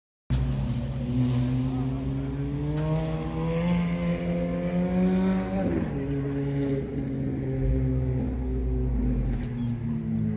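Sports car engine on a race track accelerating, its pitch climbing for about five seconds, then dropping suddenly at a gear change about six seconds in and running on at lower revs.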